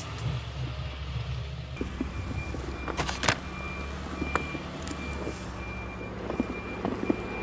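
A vehicle's reversing beeper sounding in short, evenly spaced high beeps about twice a second, starting about two seconds in, over a steady low engine rumble. A couple of sharp clicks come about three seconds in.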